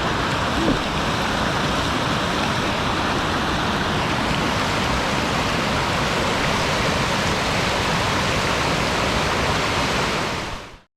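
The Red River rushing through a rocky gorge with small waterfalls: a steady wash of moving water that fades out just before the end.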